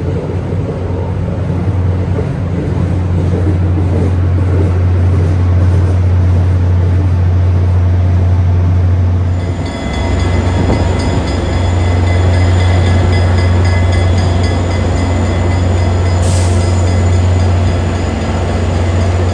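Diesel passenger locomotive running with a loud, steady low drone. About halfway through, a set of high steady tones joins in, and a short hiss comes near the end.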